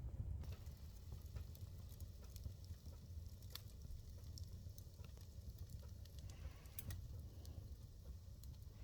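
Wood fire in a fireplace burning New Year pine decorations, giving faint, scattered crackles and pops over a low rumble.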